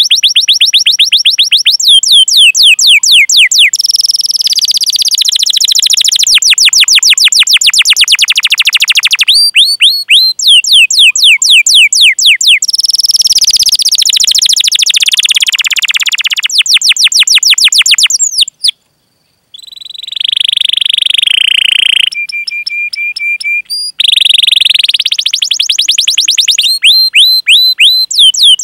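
Domestic canary singing long repeated series of quick falling chirps ('cuit cuit' calls) and fast rolling trills, with a few held steady notes later on and a brief break a little past the middle.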